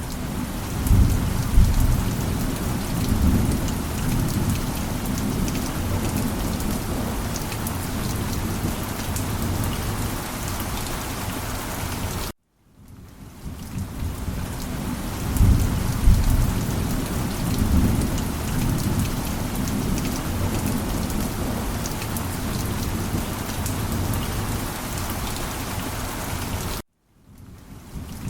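Steady heavy rain with low rolling rumbles of thunder, swelling shortly after the start and again about halfway through. Twice the sound cuts out to silence for an instant and fades back in, a seam where the recording loops.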